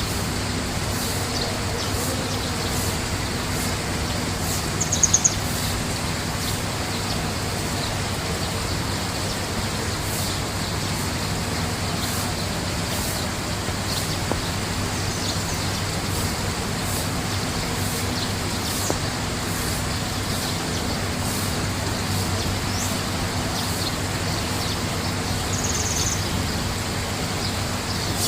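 Birds chirping in short, high calls a few times, the loudest cluster about five seconds in, over a steady background noise with a low hum.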